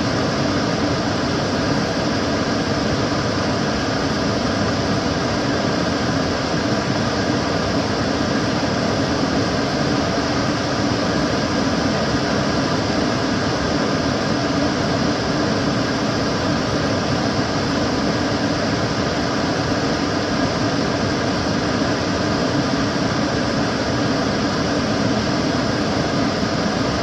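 Kitchen cooker hood extractor fan running steadily, a loud even whoosh of moving air with a faint constant hum in it.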